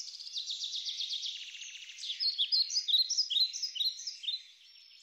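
Songbirds singing: a quick run of high chirps, then a string of short, falling whistled notes from about two seconds in, fading near the end.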